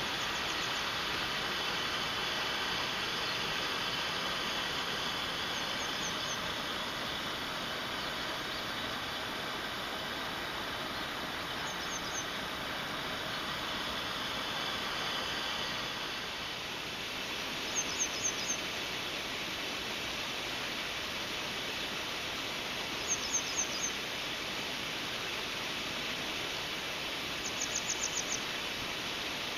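Steady rushing of a mountain stream, with a bird calling a short quick series of high chirps every five or six seconds, clearer in the second half.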